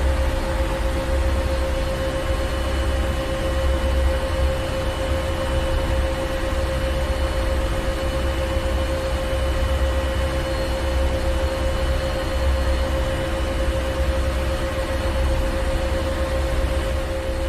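Ship's engine room machinery running steadily: a deep low rumble with a constant mid-pitched hum and an even hiss over it, unchanging throughout.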